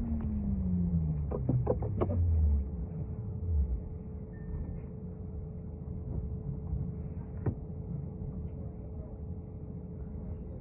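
City transit bus slowing down, its drivetrain whine falling steadily in pitch over the first few seconds, with a few clicks and rattles about two seconds in. The bus then runs at a steady low rumble with a thin steady hum, and one more click near the middle.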